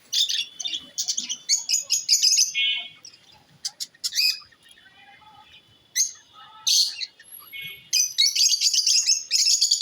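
Small pet parrots chirping in rapid, high-pitched bursts, several birds calling at once near the start and again near the end, with sparser single calls in between.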